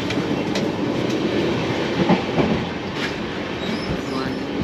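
Indian sleeper train running along the track: a steady rumble with the wheels clicking over rail joints every second or so.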